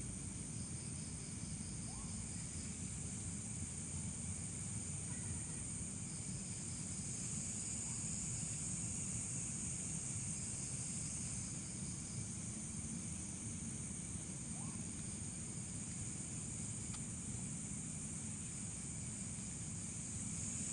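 Steady high-pitched chorus of night insects such as crickets, with a low rumble of background noise underneath.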